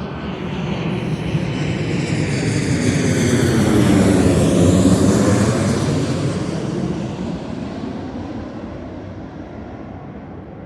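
Jet airliner flying low overhead: the engine noise swells to a peak about four to five seconds in, then slowly fades as it moves away.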